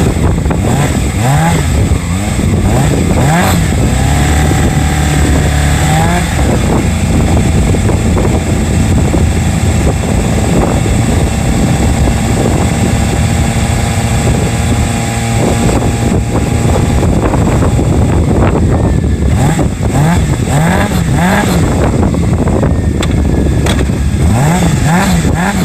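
Yamaha XJR400 air-cooled inline-four with twin mufflers under way, pulling up through the gears. Its revs climb in several quick steps early on and again in the later part, with steadier cruising in between.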